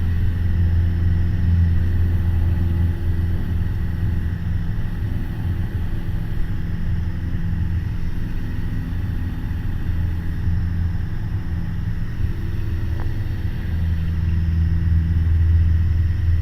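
Piper Warrior's Lycoming O-320 four-cylinder engine and propeller droning steadily at climb power, heard from the cockpit as a low hum that eases somewhat in the middle and grows stronger again near the end.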